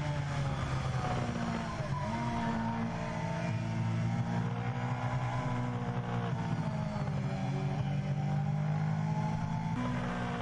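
Older sport motorcycle's engine heard from an onboard camera, running at speed. Its note rises and falls and jumps abruptly several times, as with gear changes or throttle changes. It has a carbureted sound rather than a fuel-injected one.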